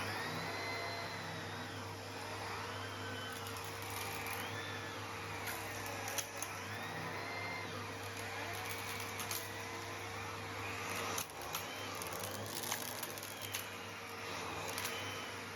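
Henry (Numatic) canister vacuum cleaner running steadily, its airflow whistle rising and falling as the nozzle works over artificial grass. Stones clink sharply as they are sucked up the hose, several times with irregular gaps.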